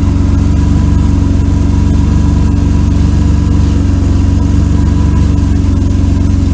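Mercedes-Benz W124 300E's straight-six engine idling steadily, with a lawnmower-like exhaust note from a leaking section of exhaust pipe that needs replacing.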